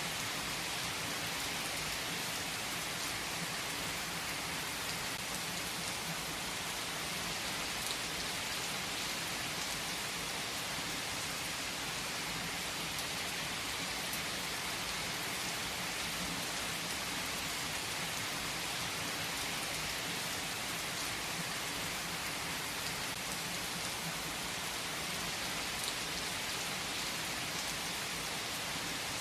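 Rain falling steadily, an even hiss with a couple of brief, sharper drop ticks.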